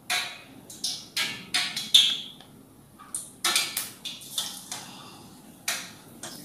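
Short wet clicks and splats of a hand working nendran banana slices in thick bajji batter, followed by a few sharp pops as a battered slice goes into hot oil. A faint sizzle of frying starts near the end.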